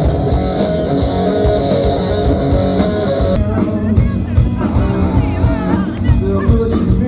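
Rock band playing, led by guitar over a steady drum beat.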